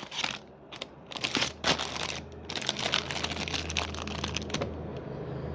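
Plastic snack-slice wrappers crinkling and crackling as they are handled and turned over, in quick irregular crackles that thin out near the end.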